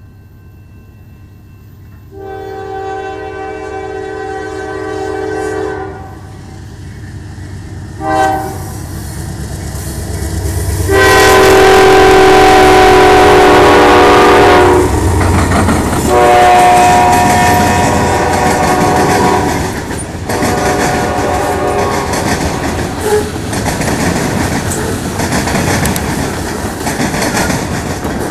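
Norfolk Southern freight train with a GE C40-9W diesel in the lead, its horn sounding a long blast, a short one, then two more long blasts, the loudest as the locomotive passes close by. After that the engines and a long string of freight cars roll past with a steady clickety-clack of wheels on the rails.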